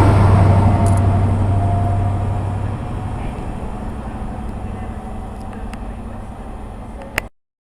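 A train moving away, its steady low hum and running noise fading gradually. Near the end a sharp click, then the sound cuts off abruptly.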